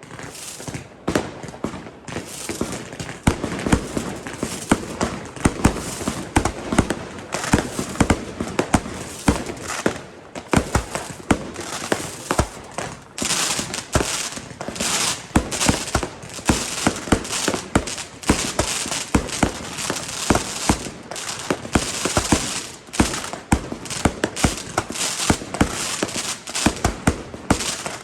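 Fireworks and firecrackers going off in a dense, irregular string of bangs and pops, with crackling that thickens from about halfway through.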